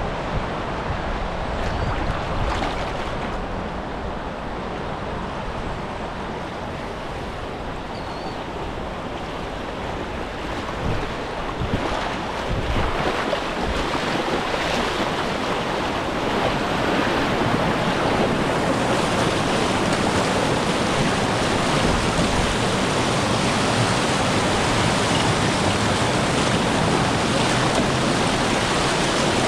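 Rushing river water of a whitewater run, a steady wash that grows louder and fuller a little past halfway, with a few brief splashes before that.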